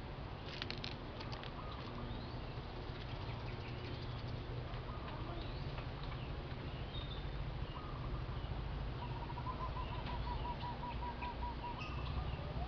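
Birds calling outdoors: scattered short chirps, then a fast run of evenly repeated notes about nine seconds in, over a steady low rumble. A few clicks sound about half a second in.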